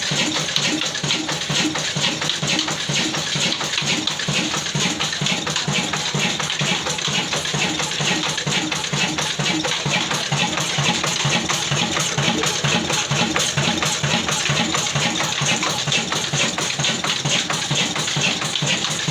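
Old black stationary diesel engine running steadily, its exhaust beating in a fast, even rhythm over a rushing, water-like noise.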